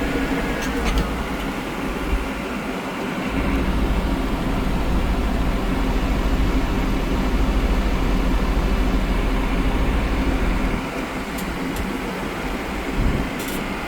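Tractor engine running steadily at low RPM, with a deep low rumble that grows heavier about three seconds in and eases near eleven seconds. The engine is overheating fast, and the owner can find no cause for it.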